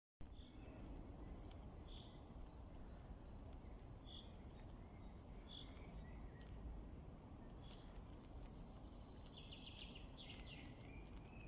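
Small birds chirping faintly in short high calls over a low, steady background rumble, the calls coming thicker about nine seconds in.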